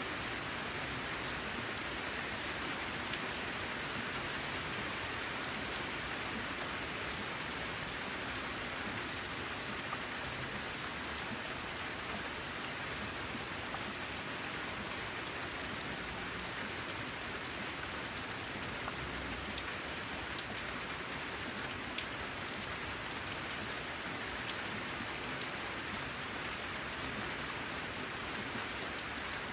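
Steady rain falling on corrugated metal roofing, an even hiss with many single drops ticking sharply through it.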